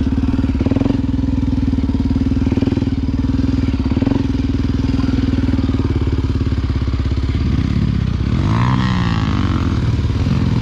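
A Honda XR Tornado 293 single-cylinder four-stroke enduro motorcycle engine running at steady revs, with a few short knocks. About eight seconds in, the revs dip and pick up again.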